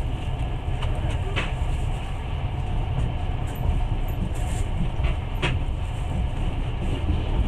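Passenger train running along the rails, heard from inside the carriage: a steady rumble of wheels on track with a few sharp clicks.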